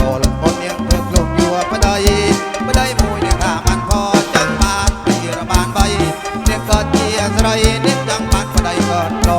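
Kantrum folk music played live by a band: a fast, steady percussion beat under a sustained melody line, with no pause.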